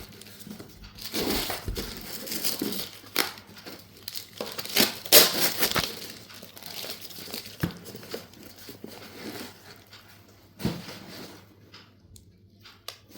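Packets of slate pencils and slate pieces being handled and unwrapped, with packaging crinkling and rustling in irregular bursts that thin out near the end.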